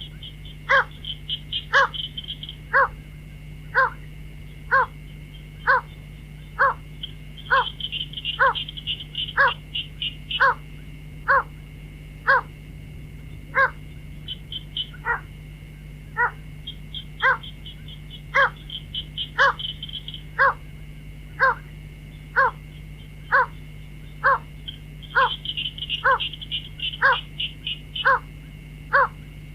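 White-breasted waterhen lure call played back: a short hollow 'kuok' note repeated evenly about once a second. Runs of fast, high chattering come every several seconds, over a steady low hum.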